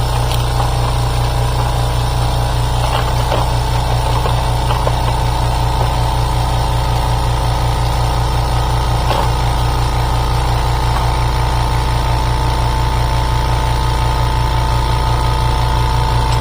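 An engine running steadily, with an even low pulsing hum and a steady whine.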